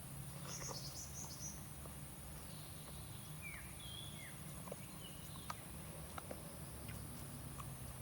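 Faint outdoor ambience: a few short, whistled bird chirps a little before the middle, a brief high insect-like chirr about a second in, and scattered light clicks over a steady low hum.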